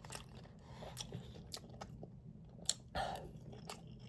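Faint close-up chewing: a person eating with small wet mouth clicks and smacks, a sharper click about two and a half seconds in and a slightly louder bite or smack just after three seconds.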